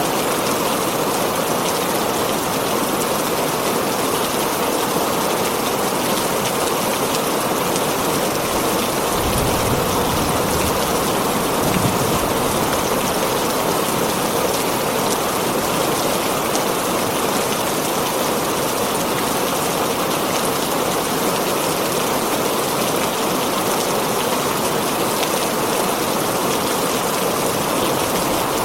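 Heavy rain drumming steadily on a tin roof. A couple of brief low thunder rumbles come about a third of the way in.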